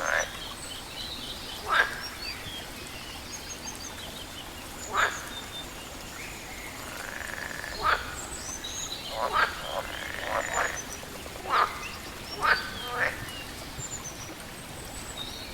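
Frogs croaking in short, loud single calls, about eight of them at irregular intervals, some coming in quick pairs. Faint high bird chirps run beneath them over a steady background hiss.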